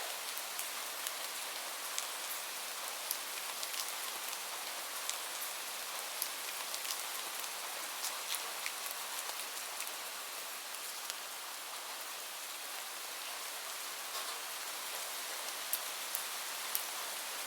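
Steady rain, an even hiss, mixed with scattered sharp crackles from a wood fire.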